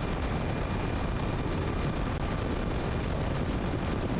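Steady roar of jet aircraft engines on an aircraft carrier's flight deck, heavy in the low rumble, with a faint high whine over it.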